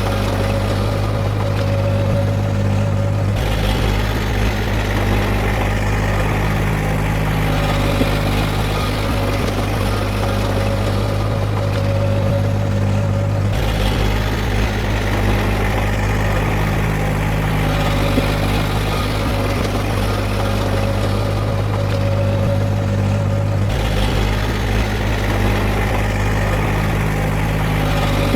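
Heavy earthmoving machinery's diesel engine running steadily with a deep, continuous hum. The sound shifts abruptly in character about every ten seconds.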